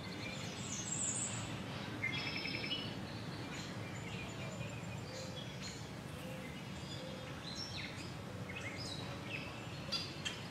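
Small birds chirping and trilling in short, scattered calls, over a steady low background rumble.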